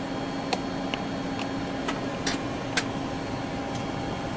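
Steady hum of an airliner's flight deck running on auxiliary power, with air-conditioning and fan noise and a couple of steady tones. About seven sharp clicks sound at irregular intervals over the first four seconds.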